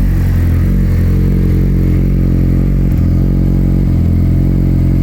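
Yamaha YZF-R6 inline-four engine running through an Akrapovic Evolution Line exhaust with the baffle removed, at a steady, unchanging speed with no revving.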